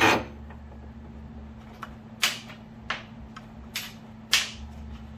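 Metal hardware clinking and knocking as a bolt is fitted through a rear leaf-spring shackle: a sharp knock at the start, then several lighter clicks a second or so apart, over a steady electrical hum.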